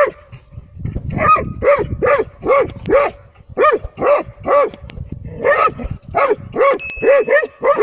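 Dogs barking repeatedly, about two barks a second, with a short break a little past the middle.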